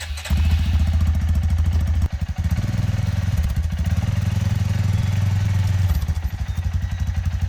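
Small off-road vehicle engine running steadily, a rapid low firing pulse, with brief wavers in level about two seconds in and again near six seconds.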